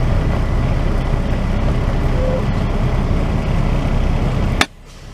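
Semi truck's diesel engine running steadily, heard from inside the cab. Near the end a sharp click, and the rumble cuts off abruptly.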